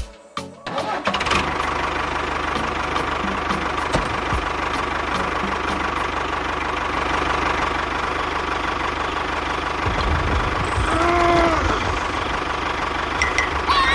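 A small motor starts up about a second in and runs steadily, with a low rumble and a steady whine. Around eleven seconds in, a short pitched sound rises and falls over it.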